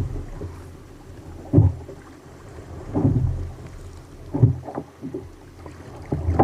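Water slapping and knocking against a kayak in a rough sea, a heavy low thump about every second and a half with a short rush of water after each.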